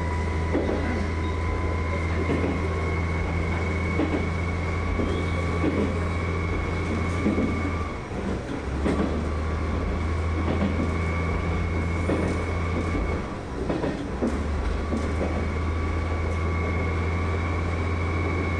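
Diesel railcar running along the line, heard from the cab: a steady low engine drone with a whine over it, and the wheels knocking over rail joints every second or two. The drone briefly drops out twice, about halfway through.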